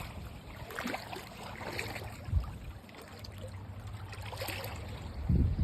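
Shoreline ambience at low tide: water trickling and lapping over the shells and flats, with a couple of low thumps, one near the middle and a louder pair near the end.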